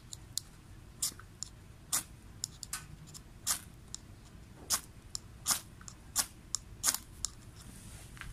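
Burning Swedish torch crackling, with a dozen or so sharp pops and snaps at uneven intervals.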